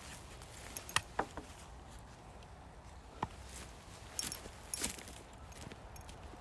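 Several light, scattered knocks and clinks of firewood and tools being handled while splitting logs.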